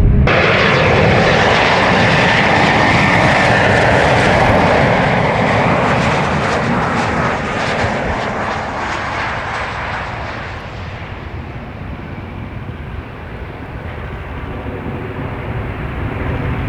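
Embraer E190-family jet airliner's engines: a loud roar with a thin whine on top, dying away after about eight seconds, then growing again near the end.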